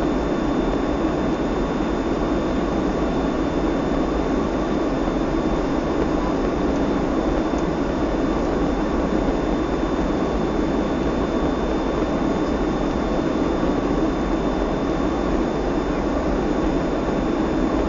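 Steady drone of a Boeing 757-224 in flight, heard from inside the cabin: engine noise and rushing airflow, with a thin steady high whine over it.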